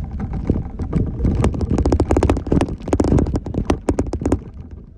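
Jeep Wrangler JKU Rubicon crawling over a rough trail: a low rumble with quick, irregular knocks and clattering rattles that die away a little before the end.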